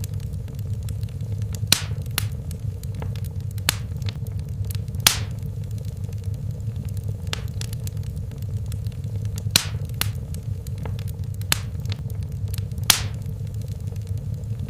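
Wood fire crackling in a fireplace: sharp pops at irregular intervals, the loudest about five seconds in and again near the end, over a steady low rumble of the flames.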